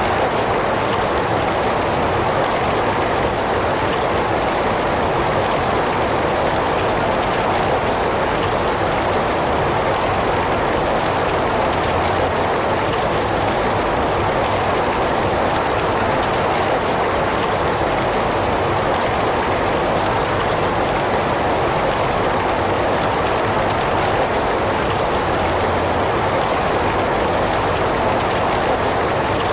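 Heavy rain falling steadily, an even, unbroken hiss of rain with no separate drops or thunder standing out.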